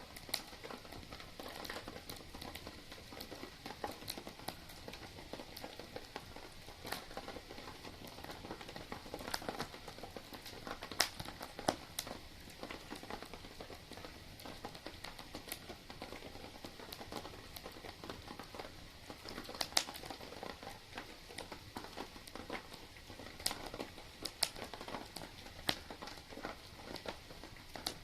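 Wood campfire crackling: irregular sharp pops and snaps, a few louder ones, over a steady soft hiss.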